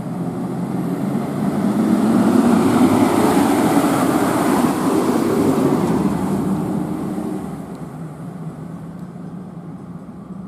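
A motor vehicle driving past: engine and road noise swell over the first few seconds, hold loud for a few seconds, then fade away.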